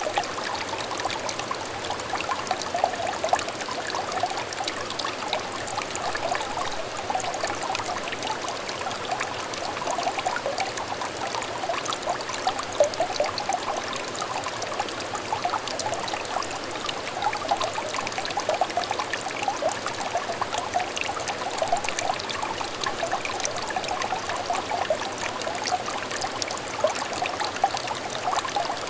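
Small stream of water trickling and babbling over stones: a steady, close burble with many little bubbling splashes.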